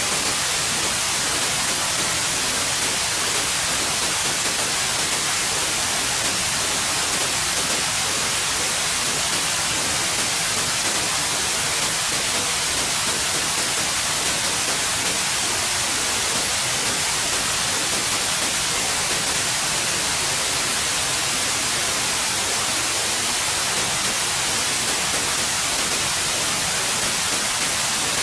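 Steady white noise: an even, unbroken hiss, brightest in the high end, with no change or events.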